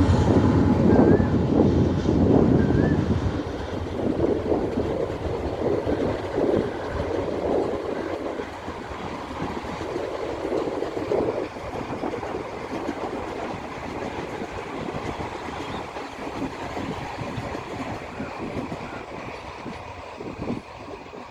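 Passenger express train's coaches rolling past over the rails, wheels clattering. The noise is loudest at first and fades gradually as the train moves away.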